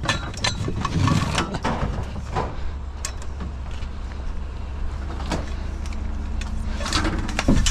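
A vehicle engine idling with a steady low hum, under scattered knocks and clatter of scrap being shifted around.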